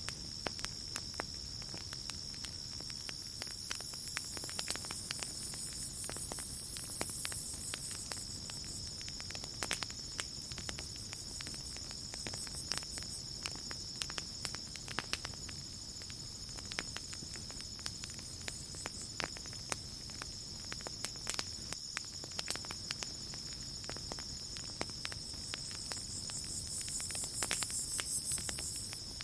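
Campfire crackling with scattered sharp pops over a steady, high-pitched chorus of night insects. A second, higher pulsing insect trill swells twice, a few seconds in and again near the end.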